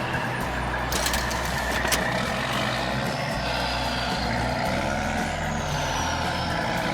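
Heavy construction vehicle's engine running steadily, with sharp clicks about one and two seconds in.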